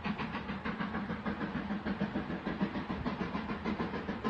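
A train running, with a quick, even beat of about five strokes a second.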